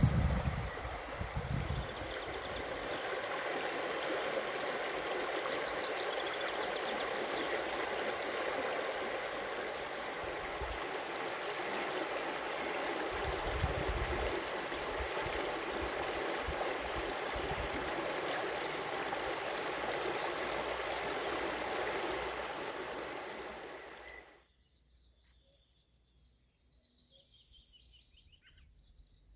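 Steady rushing of running water, with a few low rumbles of wind on the microphone. About 24 seconds in it cuts off abruptly, and faint high bird song follows.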